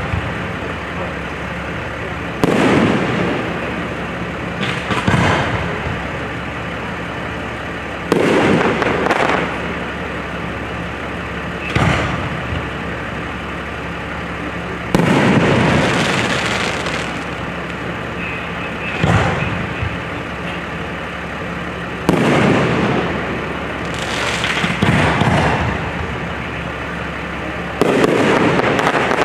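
Fireworks display: aerial shells bursting one after another, a sharp boom every two to four seconds, about ten in all, some ringing on for a second or two after the bang.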